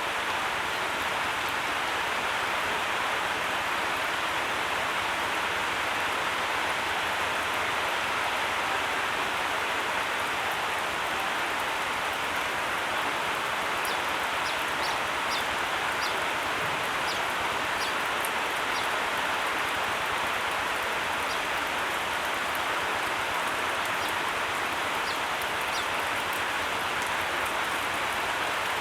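Steady, even hiss like rainfall, with a few faint high ticks partway through.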